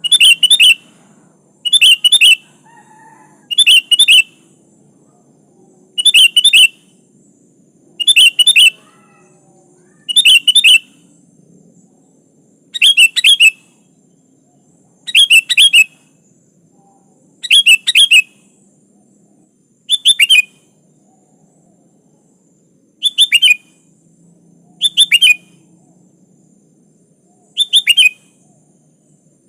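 Sooty-headed bulbul (kutilang) calling over and over: a short, loud phrase of a few quick notes about every two seconds, around a dozen times.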